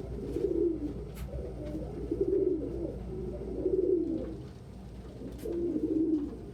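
Domestic pigeons cooing: a run of low, warbling coos one after another.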